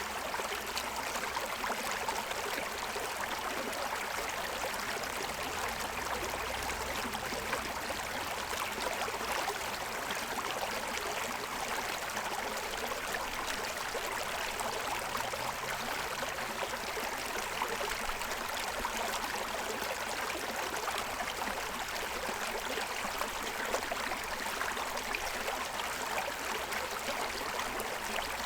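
Shallow stream running and splashing over the stones of its bed, a steady rushing and babbling.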